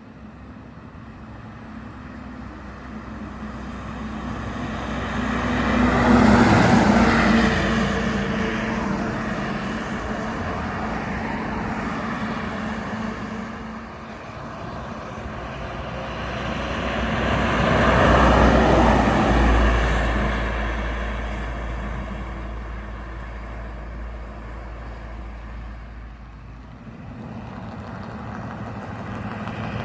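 Two heavy trucks drive past one after another, the engine and tyre noise of each swelling to a peak and fading away; the second passes about twelve seconds after the first.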